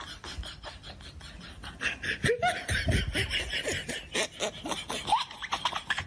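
People laughing, louder from about two seconds in.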